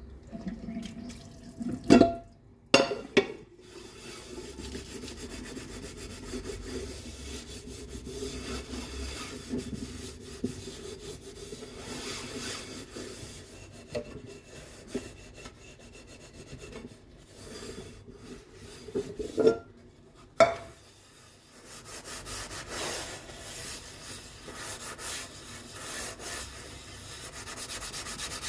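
Dishes being scrubbed by hand: a steady rubbing and scraping that grows brighter over the last few seconds. Sharp clatters of dishes knocking together come about two to three seconds in and twice around twenty seconds in.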